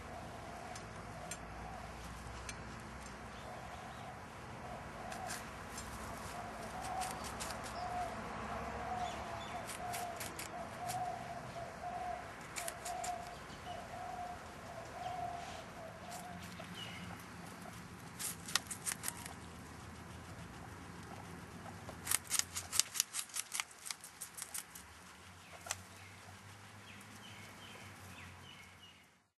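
Bird sounds: a short call note repeated about one and a half times a second for some ten seconds, then two flurries of quick clicks or wing flaps, the second the loudest.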